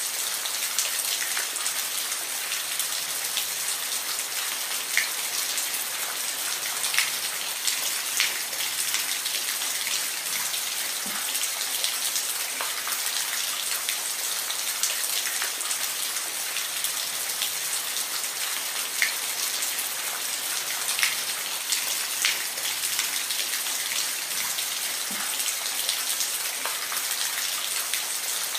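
Steady rain falling, an even hiss with scattered sharper drops striking a surface close by.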